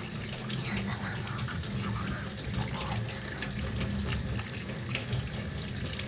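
Running water flowing steadily, with a few brief, sharper high ticks scattered through it.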